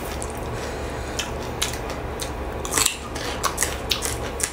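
Close-miked crunching and chewing of raw vegetables, a run of irregular crisp bites with a louder cluster just under three seconds in. A steady low hum runs underneath.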